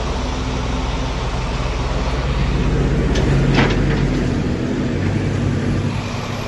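A motor vehicle's engine running steadily, with a couple of short clicks about three and a half seconds in.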